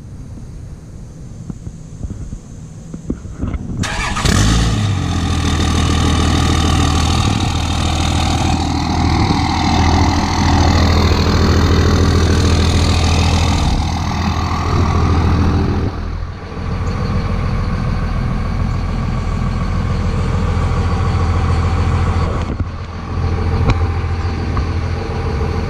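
2001 Dodge Ram 2500's 5.9-litre 24-valve Cummins turbo-diesel starting about four seconds in, then idling steadily through a 4-inch MBRP turbo-back exhaust. The start is warm-weather, not really cold.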